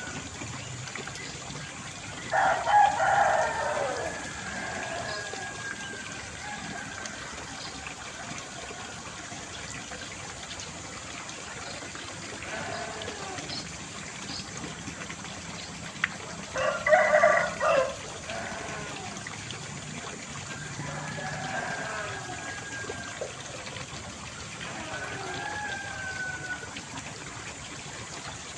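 A rooster crowing twice, once about two seconds in and again about halfway through, each crow lasting a second or two. Fainter gliding bird calls come and go between the crows, over a steady background of trickling water.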